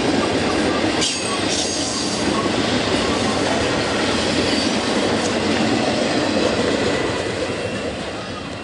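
Train rolling past, its cars' wheels running over the rails with a faint squeal. It fades away near the end.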